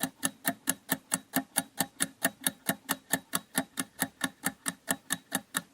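Quiz countdown-timer sound effect: clock-like ticking, evenly spaced at about five ticks a second.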